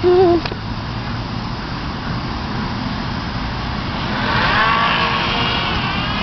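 Yellow Bee RC airplane's small electric motor and propeller whining overhead. The whine grows louder about four seconds in, and its pitch wavers and slides as the plane turns and passes. Wind rumbles on the microphone throughout.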